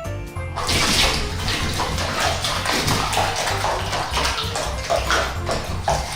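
Water splashing and sloshing in a series of quick splashes from about half a second in, over background music with a steady bass line.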